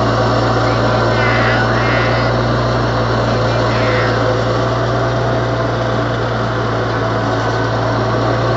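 Riding tractor mower's small engine running at a steady speed, a constant drone.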